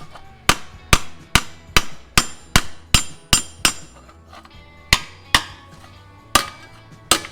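Hammer blows on a sheet-steel panel being shaped, a steady run of sharp ringing strikes about two and a half a second, pausing twice before picking up again.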